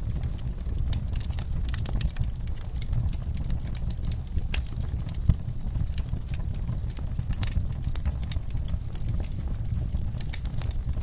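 Wood fire crackling in a fireplace: irregular snaps and pops over a low, steady rumble of the flames, with one sharper pop about five seconds in.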